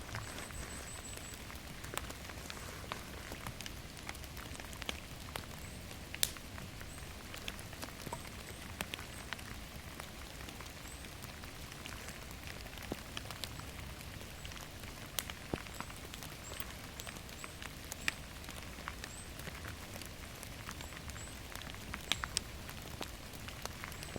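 Steady rain falling in a forest, with sharp drops ticking irregularly on nearby surfaces and a few faint high chirps now and then.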